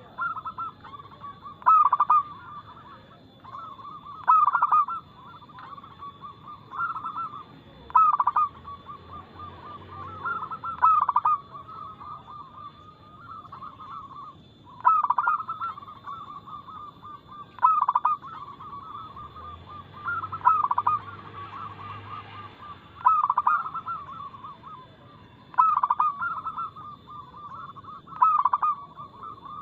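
Zebra dove (local perkutut) cooing in fast, loud phrases: a sharp opening note every two to three seconds, each run on into rapid trilled coos.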